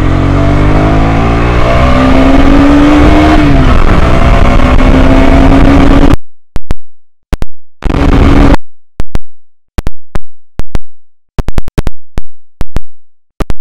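KTM Duke 125's single-cylinder engine accelerating under full throttle, its pitch rising, dipping briefly about three and a half seconds in, then holding steady. From about six seconds in the sound keeps cutting out, leaving gaps broken by sharp clicks. The rider finds the initial pickup slow, lagging at low revs.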